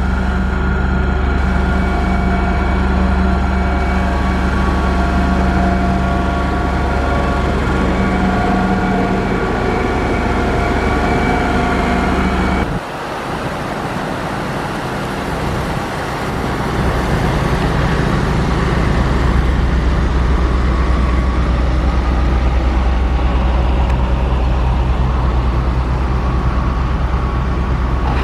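Motor grader's diesel engine running steadily with a deep hum and several steady whining tones. It drops suddenly about thirteen seconds in, then builds back up a few seconds later and runs on.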